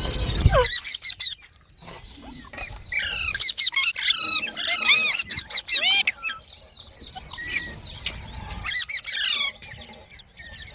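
A pet green parrot giving runs of high, sweeping squawks and chatter in several bursts with short pauses between them. A brief low rumble comes in the first half-second.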